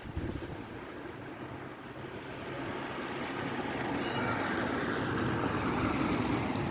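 Heavy downpour: a steady hiss of hard-falling rain that grows louder a couple of seconds in.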